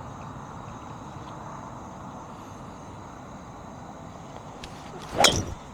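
A golf club striking a ball off the tee: one sharp crack about five seconds in, over steady outdoor background noise.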